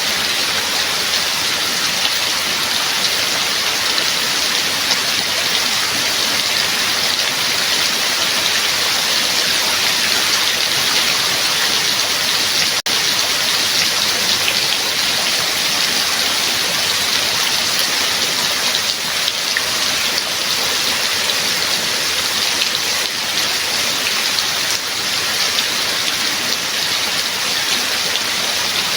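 Steady rain falling, a dense, even hiss of countless drops, with a momentary dropout a little under halfway through.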